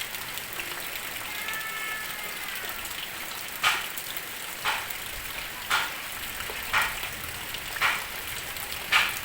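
Steady heavy rain. A brief high, arching cry sounds about a second in. From a third of the way through, sharp splash-like hits recur about once a second, like water dripping in a regular rhythm.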